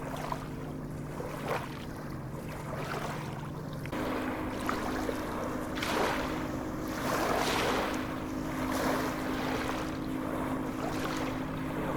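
Sea waves washing and breaking, swelling and easing, with a low steady hum underneath that steps up in pitch about four seconds in.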